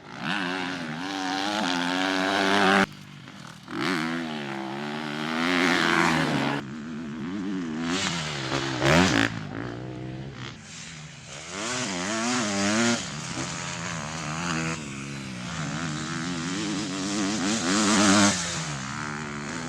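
Motocross motorcycle engines revving up and down repeatedly as the bikes race, the sound breaking off abruptly a few times.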